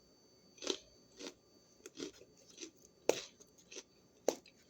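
Mouth crunching and chewing a raw green bell pepper: a series of short, crisp crunches at an uneven pace, about eight of them.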